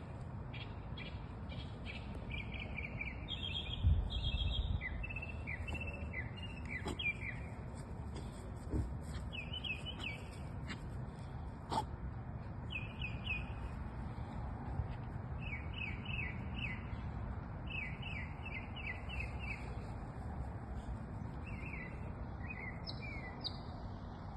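Songbirds singing: repeated runs of short, quickly falling notes in several bouts, over a fainter steady high chatter. A brief low rumble comes about four seconds in, and a single sharp click near the middle.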